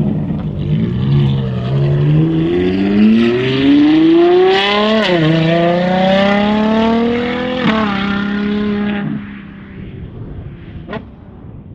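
Ferrari Purosangue's V12 engine through a Novitec race exhaust, accelerating hard: the pitch climbs, drops sharply at two upshifts about five and seven and a half seconds in, then holds and fades away in the last few seconds.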